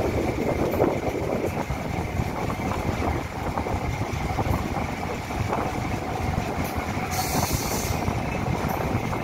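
Diesel passenger train running at speed: steady rumble and clatter of wheels on rail, with a brief hiss about seven seconds in.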